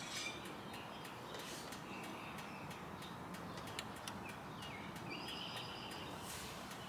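Faint outdoor background with birds chirping now and then.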